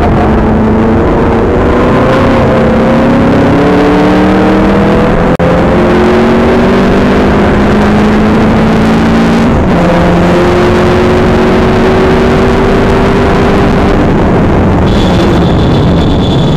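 TVR Cerbera 4.5's 4.5-litre V8 heard from inside the cabin, accelerating hard and rising in pitch. It breaks and drops in pitch twice, about five and ten seconds in, as it shifts up, then climbs again. Near the end the engine note eases and a thin high whine comes in.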